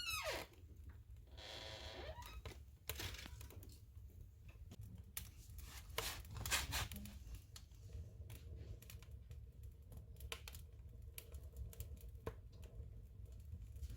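Firewood burning in a wood stove: irregular crackles and pops over a low steady rumble, with a short falling whistle at the start and a brief hiss about a second and a half in.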